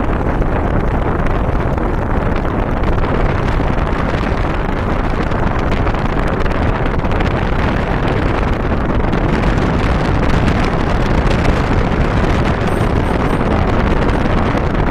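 Loud, steady wind buffeting the microphone of a moving vehicle, with a low road rumble underneath.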